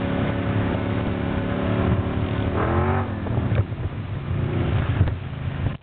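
Off-road vehicle engine running under throttle, its pitch rising sharply on a rev about two and a half seconds in and then falling back, with a couple of sharp ticks later on.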